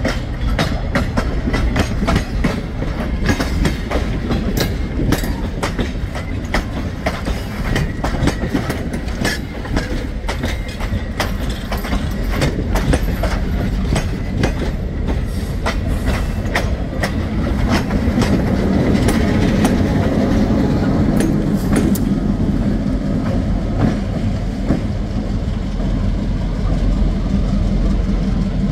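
Passenger train rolling past at close range, its wheels clicking over rail joints in a dense, uneven clickety-clack. From about two-thirds of the way through, the steady rumble of the diesel locomotive at the rear grows louder as it comes by.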